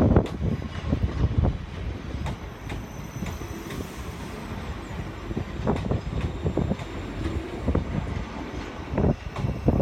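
Two coupled ScotRail Class 334 electric multiple units arriving and rolling slowly past at close range: a steady low rumble with irregular clicks from the wheels on the track.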